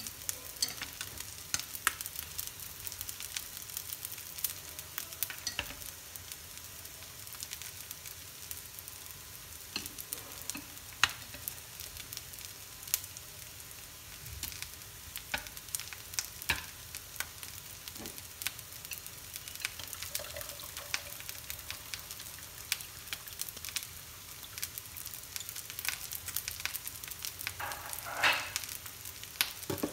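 Small goby fish, garlic and lá lốt (wild betel) leaves frying in hot oil in a pan: a steady sizzle dotted with many sharp crackling pops, with a louder spell of crackling near the end.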